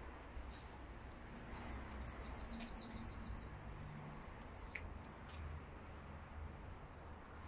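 Garden birds chirping faintly: a short high call, then a fast trill of about seven repeated notes a second lasting two seconds, then a couple of single chirps.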